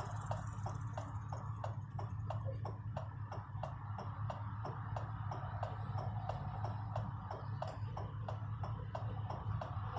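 A vehicle's indicator flasher clicking steadily, about three clicks a second, over the low hum of an idling engine.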